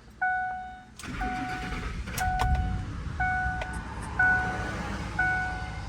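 2004 Ford F-150's 5.4 L V8 starting about a second in and then idling steadily, with a misfiring cylinder 8 temporarily fitted with an ignition coil from another vehicle; the idle is smooth ("sereno"). Over it, the truck's dashboard warning chime beeps about once a second throughout.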